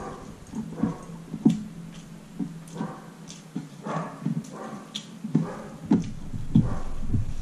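Close-up eating sounds: a person chewing a mouthful of rice and curry, with irregular wet smacks and clicks of the lips and mouth.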